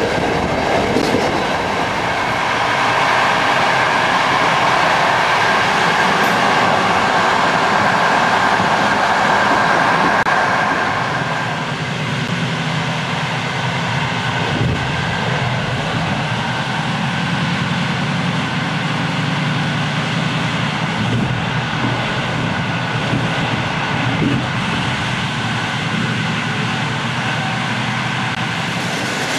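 Passenger train running along the rails with a steady rush and rumble; about eleven seconds in the sound turns deeper and a little quieter.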